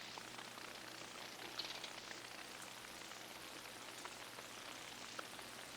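Faint steady hiss with a low electrical hum, the quiet room tone of the garage, with a few soft ticks about a second and a half in.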